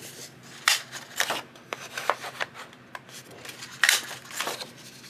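Sheets of craft paper being handled and sorted: irregular rustles and slides of paper, a few of them sharper and louder.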